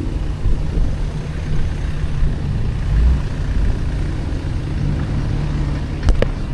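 Car engine and exhaust rumble, low and steady with small swells, with a couple of sharp clicks near the end.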